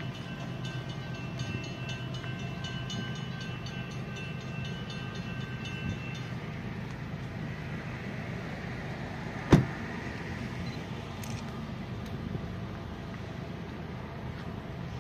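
A train moving away out of sight gives a steady low rumble, with high ringing tones and a run of faint regular clicks that stop about six seconds in. One sharp knock, the loudest sound, comes near ten seconds in.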